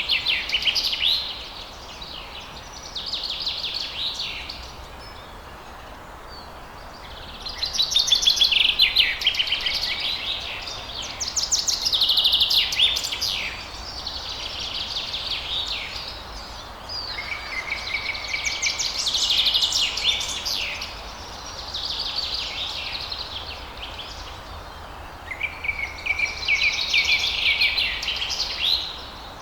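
Songbirds singing: about eight high-pitched phrases of rapid trills, each lasting one to three seconds and coming every few seconds, over a steady low background hiss.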